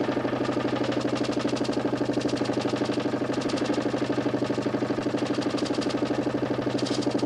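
DC motor spinning a 40 cm plywood Nipkow disc on a homemade mechanical television: a steady hum with a rapid, even pulsing of about twelve beats a second.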